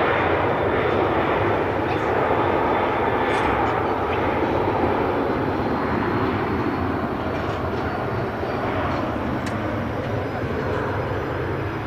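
Airliner engines running close by: a steady, loud rushing noise with a faint high whine above it, easing off slightly near the end.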